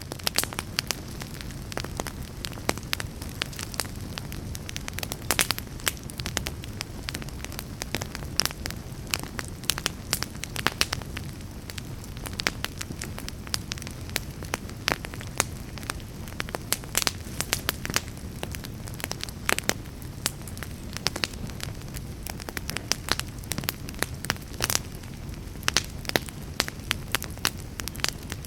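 Wood fire burning in a fireplace, crackling with frequent sharp, irregular snaps over a steady low rush of the flames.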